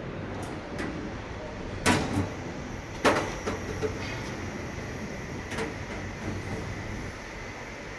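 A few sharp knocks over steady background noise, the loudest two about two and three seconds in, with a weaker one at about five and a half seconds.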